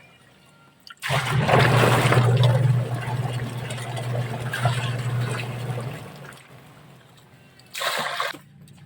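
Washing machine running with water: a steady low motor hum and water sloshing start suddenly about a second in, run for about five seconds and then fade. A short splash comes near the end.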